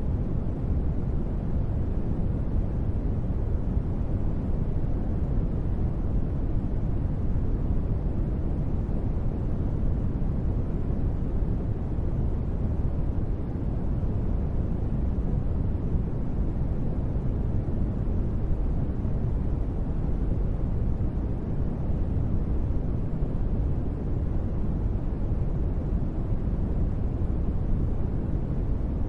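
Steady, deep, even space-ambience noise, heaviest in the bass and softer toward the treble, with no tones or separate sounds and no change in level.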